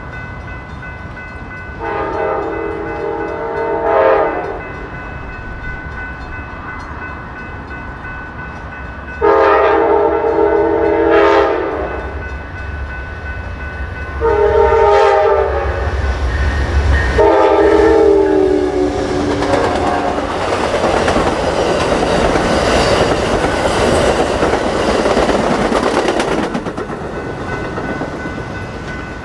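A train horn sounds four blasts of two to three seconds each, several notes at once, as the train approaches. A deep rumble builds under the later blasts, and from about twenty seconds in the train rushes past with loud wheel and rail noise that fades near the end.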